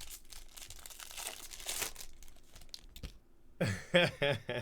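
Foil wrapper of a baseball card pack being torn open and crinkled in the hands, with a sharp click about three seconds in.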